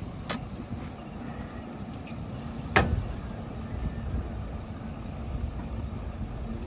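Borewell drilling rig's engine running steadily with a low rumble, with a light click at the start and one sharp knock a little under three seconds in.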